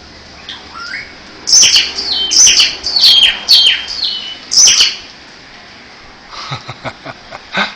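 Plain black birds calling: a run of about six loud, sharp squawks, each sliding down in pitch, in quick succession, then softer chattering calls near the end.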